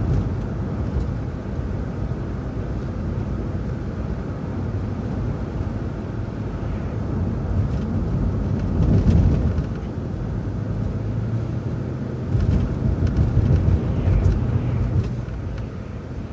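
City transit bus driving along, its engine droning low and steady under tyre and road noise, heard from inside the bus. It grows louder about nine seconds in and again for a few seconds near the end, as the bus pulls harder.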